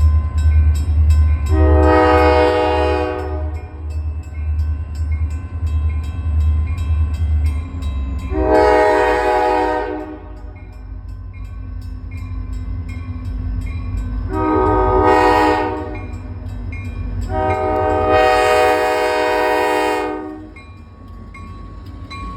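Airchime K5LA five-chime air horn on an RM-1 railroad slug blowing the grade-crossing signal: two long blasts, a short one, then a long one. Under the first two blasts runs a low, evenly pulsing rumble from the train.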